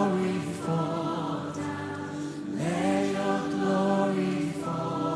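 Worship singers holding long, drawn-out notes of a slow worship song over steady backing music. A new phrase begins about two and a half seconds in, sliding up into another held note.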